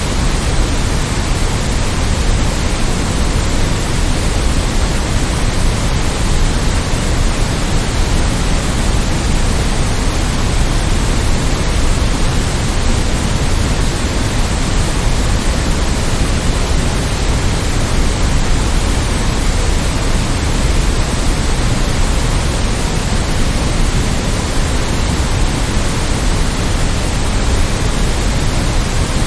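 Steady, unchanging synthesized white noise: an even hiss with more weight in the low end.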